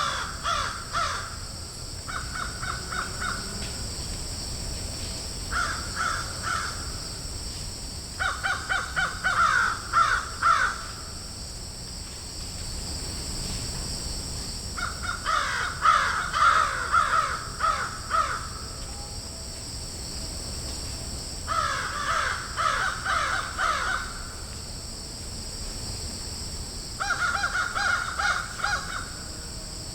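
Crows cawing in a field, in bouts of rapid repeated caws a few seconds apart, over a steady high background hiss.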